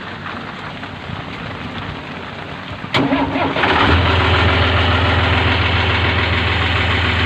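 An engine cranks and starts about three seconds in, then settles into a steady low idle. Before it there is a steady hiss.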